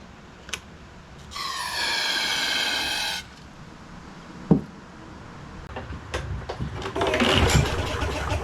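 An aerosol can of carburetor cleaner hissing for about two seconds as it is sprayed into the intake of a John Deere JS36 lawnmower that won't start, the starting fluid standing in for the fuel the carb isn't delivering. A sharp knock follows, and near the end the recoil starter is pulled, the engine turning over in loud rumbling bursts.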